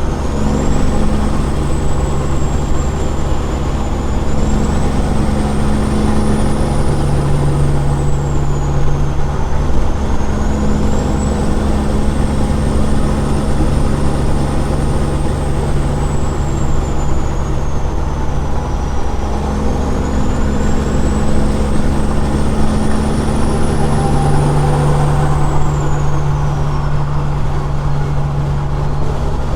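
Straight-piped Caterpillar 6NZ diesel in a big rig running loudly under way, a steady deep drone that swells and eases slowly, with a high whine above it that rises and falls.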